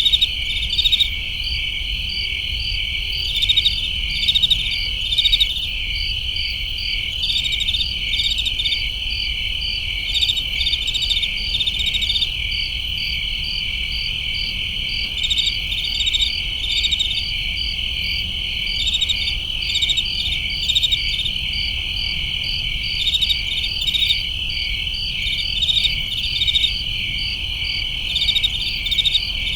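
Summer crickets chirping: a steady high trill, with pulsed chirps coming in short groups over it every second or two, and a faint low rumble underneath.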